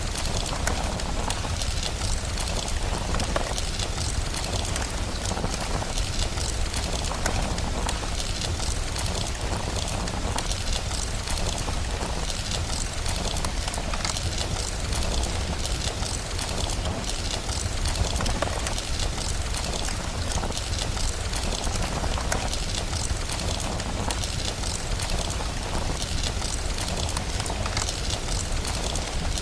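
Ambient mix of steady rain and a crackling fireplace: an even hiss with a constant low rumble underneath and many fine crackles scattered through it.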